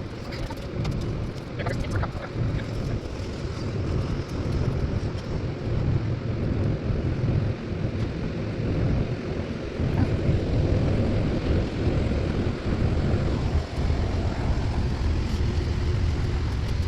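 Wind buffeting the phone's microphone over a steady low rumble, with a few light clicks in the first couple of seconds.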